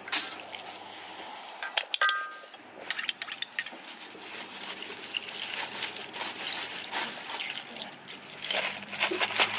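Clatter of drink making: scattered clinks of cups and utensils with some liquid sounds, a brief high tone about two seconds in, and a rising rush of noise near the end.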